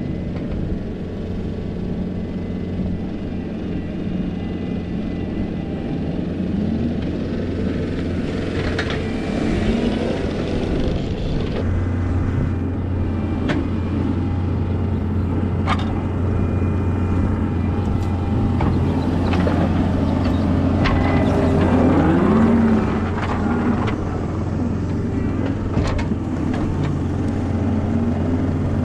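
John Deere 333E skid loader's diesel engine working under load while pushing dirt, its note rising and falling as the machine works, and stepping up to a stronger, steadier drone about twelve seconds in. A few sharp clanks sound now and then.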